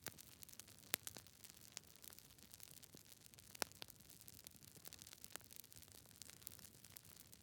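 Campfire of burning wood crackling: irregular sharp pops and snaps over a soft hiss, the loudest pops about a second in and in the middle.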